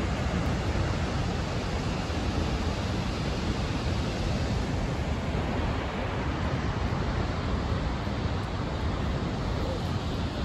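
Snoqualmie Falls, a large waterfall, rushing with a steady, unbroken noise.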